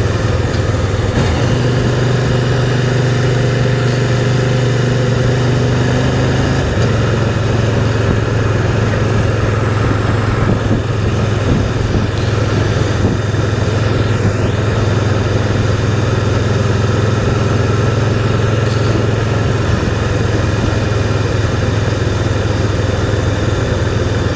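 Can-Am Spyder three-wheeled motorcycle engine running steadily while riding, with a continuous rush of wind and road noise. The engine note shifts slightly in pitch about a second in and again about seven seconds in.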